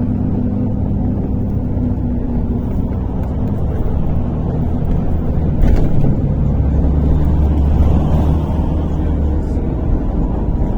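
MAZ-103.485 city bus running along the road, heard from inside the passenger cabin: a steady low engine and drivetrain rumble. There is a single knock about halfway through, and the low rumble grows louder for a few seconds after it.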